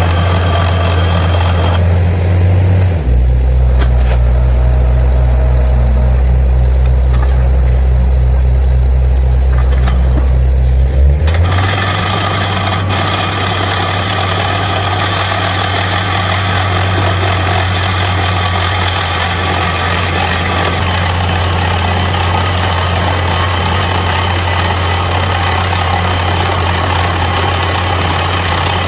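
Borewell drilling rig running: a heavy diesel engine drones steadily under a broad hiss of compressed air. For several seconds early on, the engine note drops lower and the hiss falls away. Then it comes back at about eleven seconds and holds steady.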